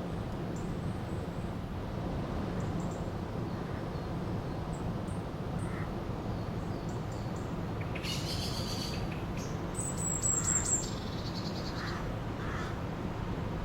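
A river flowing steadily, with birds calling over it: a harsh call about eight seconds in, then a high, rapid trill about ten seconds in, and a few faint chirps.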